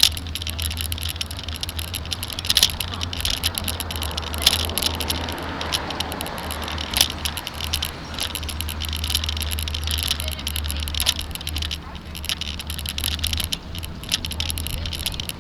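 Bike-mounted camera rattling and clattering non-stop as the bicycle rolls over a rough, cracked cement sidewalk, with a steady low rumble underneath.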